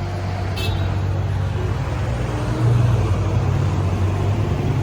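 Car engine idling close by, a steady low hum that grows louder about two and a half seconds in and edges up in pitch near the end.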